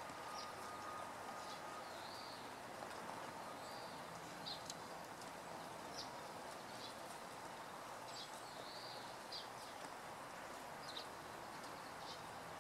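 Short, high bird call notes, scattered irregularly every second or so with a few longer arched notes among them, over a steady outdoor hiss.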